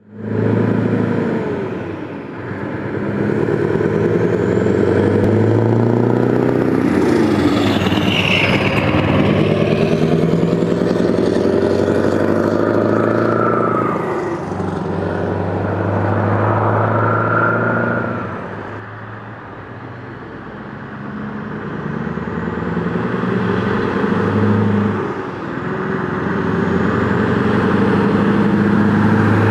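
Scania T500's V8 diesel engine pulling a truck and machine trailer, its pitch repeatedly rising and then dropping as it revs up through the gears. It eases off and goes quieter about two-thirds of the way through, then builds again.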